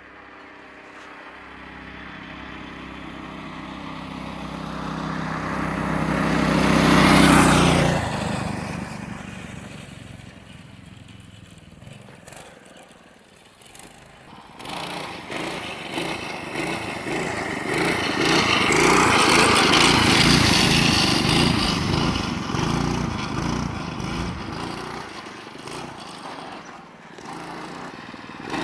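Mini bike's 212cc Predator single-cylinder engine, driving through a CVT, coming closer and passing by about seven seconds in, its pitch dropping as it moves away. From about halfway through it is loud again, peaking around two-thirds of the way in before easing off.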